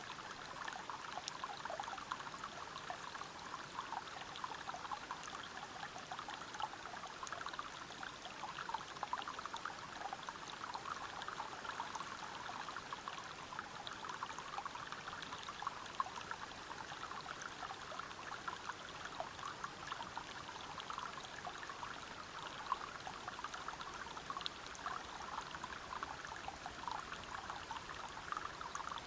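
Water flowing and splashing over rocks in a forest stream or waterfall: a steady, even rush made of many small splashes.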